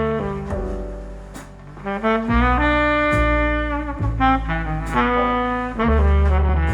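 Jazz with a saxophone lead over a walking double bass, played back over hi-fi loudspeakers driven by a push-pull vacuum-tube amplifier. Sustained horn notes change pitch every second or so, with a few sharp cymbal strokes.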